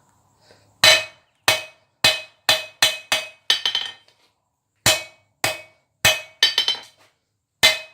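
Hand hammer striking hot rebar on an anvil while forging the boss of a tong blank. The anvil rings after each blow. There are two runs of strikes, the second beginning after a pause of about a second near the middle, and each run ends in quicker, lighter blows and bounces.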